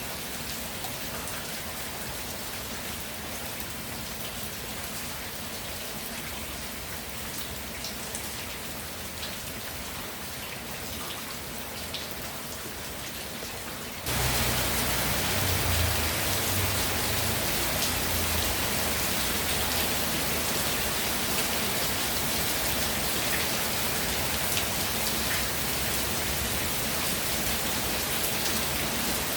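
Steady rainfall, with scattered ticks of individual drops. About halfway through it abruptly becomes louder and fuller.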